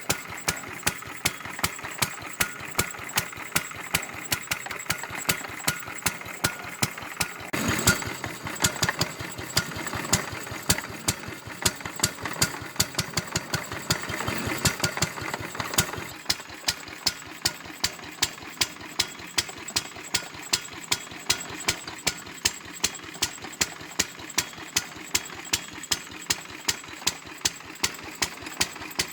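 Lister D single-cylinder stationary petrol engine of 1.5 hp running slowly, each firing stroke a sharp, evenly spaced beat. For several seconds in the middle a louder rumbling noise runs under the beats.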